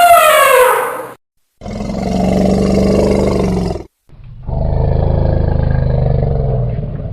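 Elephant calls: a trumpet call ending about a second in with a falling pitch, then two long, low roars, the second longer than the first.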